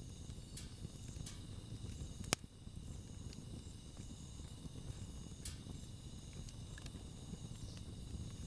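Wood campfire burning: a low, steady rumble with scattered sharp crackles and pops from the burning wood, the loudest about two seconds in.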